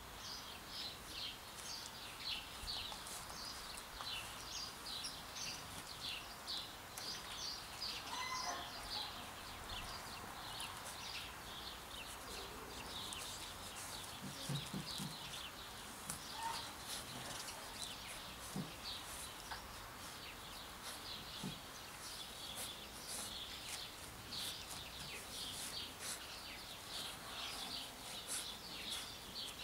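Small birds chirping in the background, many short high chirps a second throughout, with a few brief low thumps around the middle.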